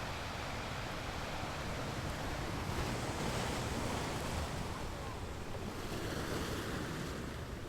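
Ocean surf washing onto a beach. A wave swells and breaks about three seconds in, then fades back to a steady wash.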